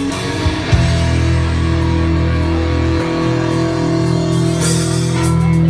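Live rock band playing an instrumental passage: electric guitar and bass hold sustained chords, changing about halfway through, with drum and cymbal hits near the end.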